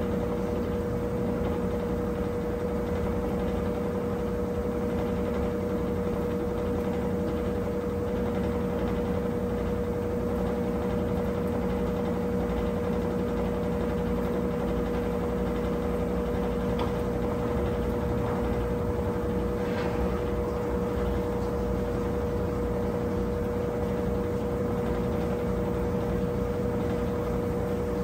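Brastemp 17 kg top-load washing machine running steadily in its final spin, with a constant motor whine and a low hum beneath.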